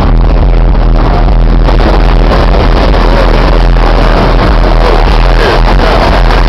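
Very loud bass-heavy music from a Scion xA's car-audio system, the deep bass notes constant and overloading the microphone into distortion.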